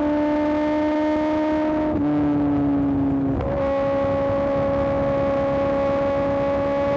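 Kawasaki ZX-10R inline-four engine running through an M4 exhaust at a steady, high cruising note. The note dips slightly about two seconds in and steadies again about a second and a half later, a brief easing and reapplying of throttle.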